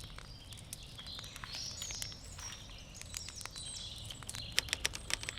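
Wood campfire crackling with sharp pops that come thicker and louder near the end, while birds chirp and sing. A low steady rumble runs underneath.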